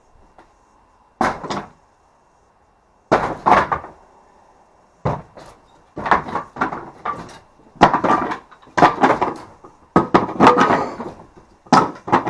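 Repeated heavy knocks and bangs on the wooden boards of a timber wall being knocked apart: about a dozen blows at uneven spacing, coming thicker from about halfway through.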